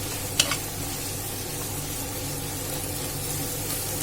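Sliced onions sizzling steadily as they fry in hot oil, with one sharp clink of a stirring spoon against the pan about half a second in.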